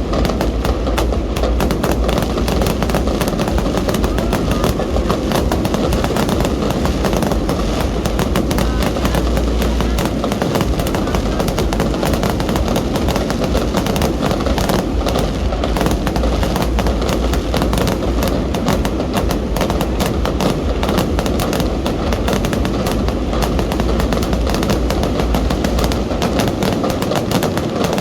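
Fireworks barrage: a dense, unbroken run of rapid bangs and crackling from many shots firing at once, with a deep rumble underneath that drops out briefly about ten seconds in and again near the end.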